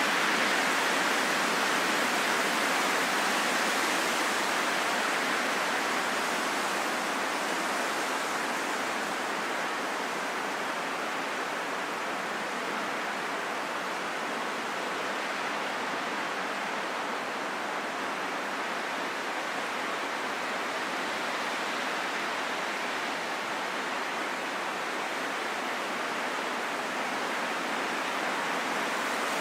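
Wind rushing steadily without a break, easing slightly after the opening seconds and building again near the end.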